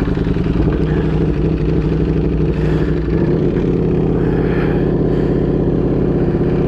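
Ducati Panigale V4 engine running through a Competition Werkes GP race exhaust, holding a steady pitch.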